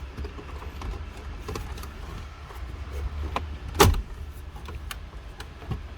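Plastic dashboard trim panel being pulled off, its retaining clips releasing with scattered small clicks and one loud sharp snap about four seconds in, over a steady low hum.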